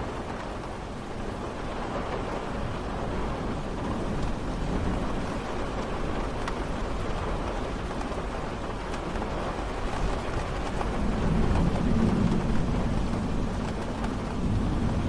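Steady rain falling, an even hiss, with a low rumble that swells up about two-thirds of the way through.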